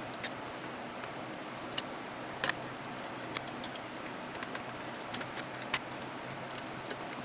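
A screwdriver backing screws out of a plastic Neutrino Wand prop: a handful of sharp, light clicks and ticks, spaced unevenly, over a steady low hum.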